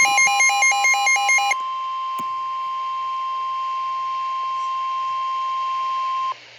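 NOAA Weather Radio 1050 Hz warning alarm tone: a steady single-pitched tone that cuts off abruptly near the end. It signals that a warning broadcast is about to follow. For about the first second and a half, a rapid electronic beeping of about five beeps a second plays over it.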